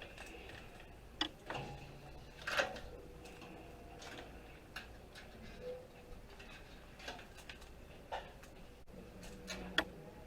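Irregular light clicks and taps of wires and plastic connectors being pulled out of a desktop computer and handled, with a few sharper knocks about a second in, about two and a half seconds in and near the end.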